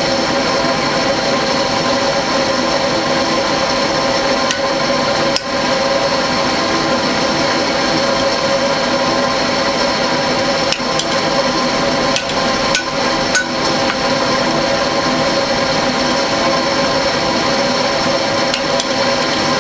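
Forge blower running steadily with a constant hum, with a few sharp knocks scattered through it.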